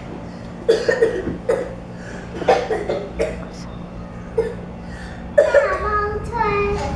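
Children's voices in a room: scattered short outbursts and coughs, then a drawn-out vocal call a little before the end. A steady low hum runs underneath.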